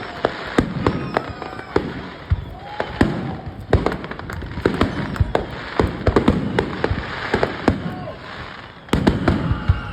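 Aerial fireworks display: a steady run of sharp bangs and pops over continuous crackling, turning into a denser, louder volley about nine seconds in.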